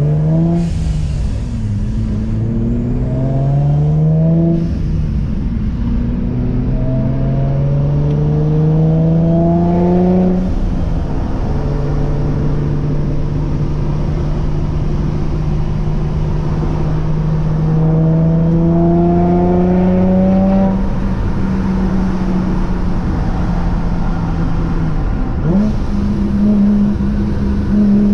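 Vortech-supercharged Infiniti G35 V6, with aftermarket headers and exhaust, pulling through the gears. The engine pitch climbs and drops back at each upshift three times, then holds a steady cruise, and rises again near the end.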